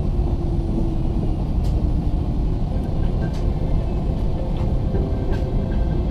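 Cabin noise inside an Airbus A380-861 rolling on the ground: a steady low rumble with faint engine tones and a few light rattles.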